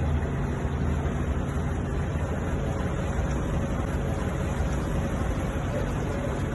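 Steady low rumble of a ship's engine mixed with wind and water noise.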